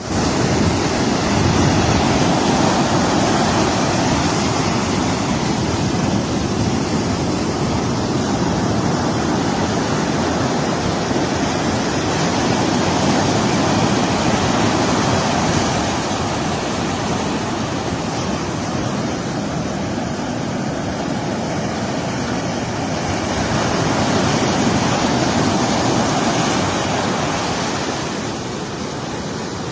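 Ocean surf breaking on a beach: a loud, steady rush of waves that swells and eases.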